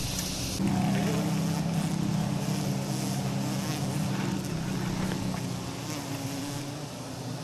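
Honeybee swarm buzzing, a steady low drone that starts suddenly just after the start and eases slightly toward the end.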